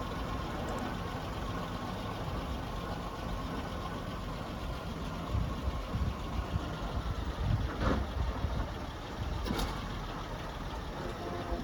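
The old four-cylinder-era engine of a 1926 International-chassis Lorne fire engine idling with a low, uneven rumble that grows louder and rougher about halfway through. Two short sharp clicks come near the end.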